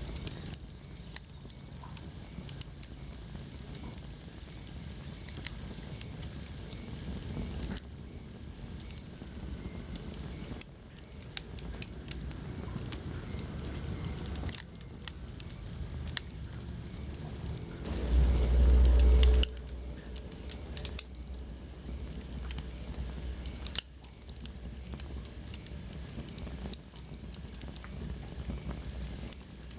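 Wood fire crackling, with frequent sharp pops and snaps over a low steady rumble. About two-thirds of the way through, a loud low rumble lasts about a second and a half.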